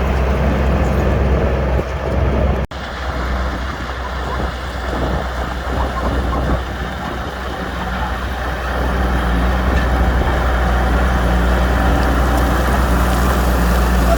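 Heavy diesel earthmoving machinery running with a steady low rumble, broken once by a sudden momentary gap in the sound.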